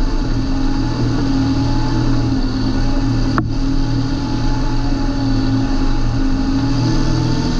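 John Deere 8320 tractor's six-cylinder diesel engine running steadily at an even speed, with one brief sharp click about three and a half seconds in.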